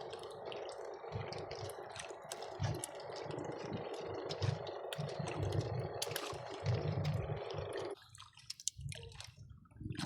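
Water splashing and dripping over a steady rushing noise, with many small splashes and clicks; the rushing cuts off suddenly about eight seconds in.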